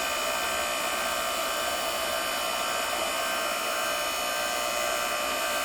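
Electric hydraulic log splitter's 3 hp motor and pump running steadily with a constant whine, being warmed up so the hydraulic oil thins before use.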